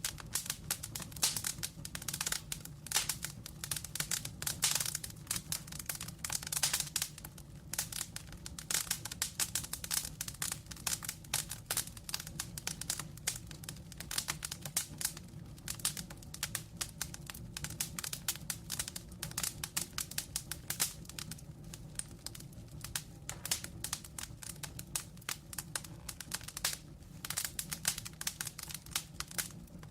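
Wood fire burning in a fireplace, crackling and popping in a dense, irregular stream of small snaps over a steady low rumble of flame.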